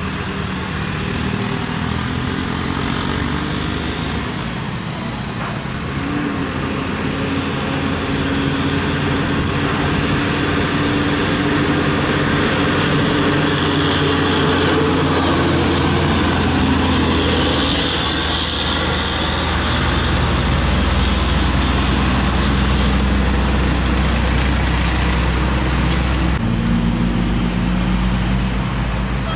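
Heavy diesel trucks running past on the road: a deep, steady engine note that swells toward the middle, with tyre and traffic hiss over it.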